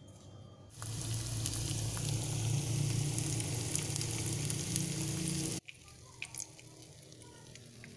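Flour-coated banana pieces sizzling and crackling in hot oil in a frying pan. The sizzle starts about a second in and cuts off suddenly after about five seconds, leaving a much quieter stretch with a few faint clicks.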